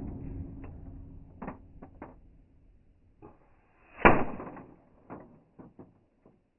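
A single sharp shot about four seconds in, from a .22 HPA air rifle, with a short decay. It opens on the fading tail of an earlier loud shot and is dotted with light clicks and ticks before and after.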